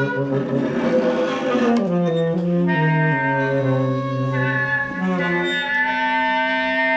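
A group of musicians playing together, wind and brass instruments among them, holding several overlapping long notes that change pitch every second or so.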